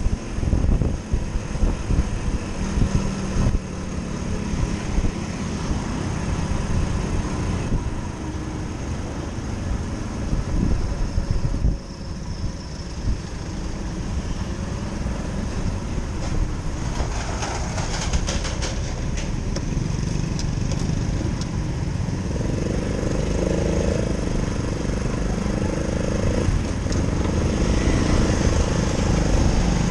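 Motorcycle engine running under way, a continuous engine and road noise, with a steadier engine note coming in about two-thirds of the way through.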